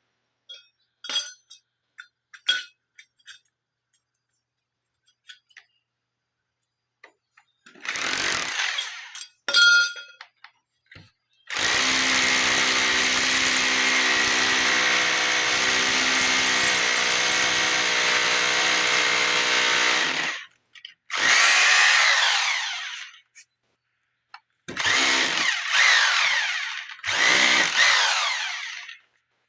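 Bosch Extreme SDS-plus hammer drill boring into concrete: two short bursts, then one long steady run of about nine seconds, then three more short bursts near the end. A few light metallic clinks come in the first seconds.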